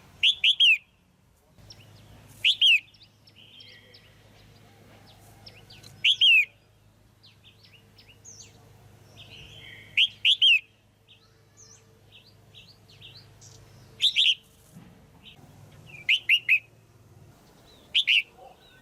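Female red-whiskered bulbul calling loudly: short calls of two or three quick falling notes, repeated about every two to four seconds, with fainter chirps between. This is the call keepers play to rouse male bulbuls.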